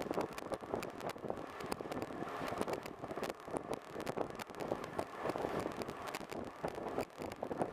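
Boat engine running steadily, with wind on the microphone and frequent small knocks.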